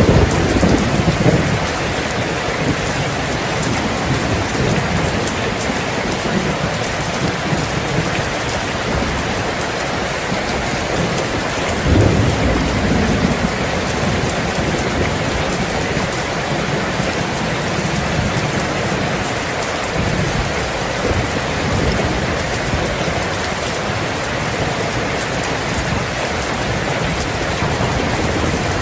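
Steady heavy rain falling, with low rumbles of thunder at the start and again about twelve seconds in.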